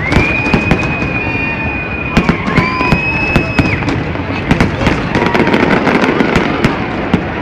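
Fireworks display: aerial shells bursting in dense, irregular bangs and crackles. A high steady tone is held over them twice, for about two seconds near the start and again around the middle.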